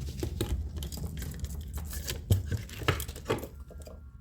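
Rusted door latch mechanism being worked by hand after a soak in penetrating oil, giving irregular metal clicks and clacks, with a few sharper knocks about two and three seconds in, as the seized parts start to free up.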